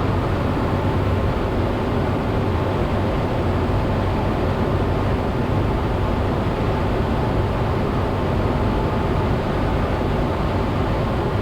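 Cessna 172's piston engine and propeller running steadily with wind rush, heard inside the cabin during a descent.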